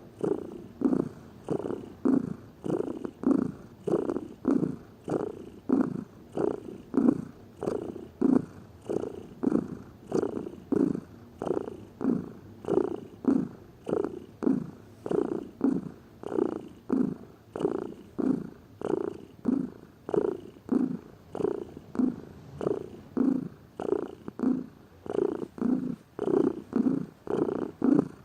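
Domestic cat purring close up, in an even rhythm of close to two pulses a second that swell and fade with its breathing in and out.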